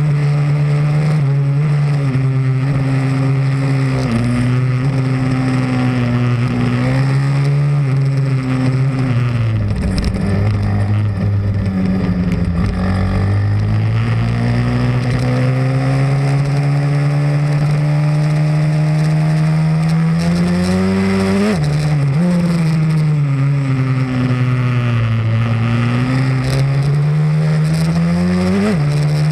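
Pit bike's small single-cylinder engine running hard, its pitch climbing and falling with the throttle over several seconds at a time. The revs drop sharply about two-thirds of the way through and again near the end.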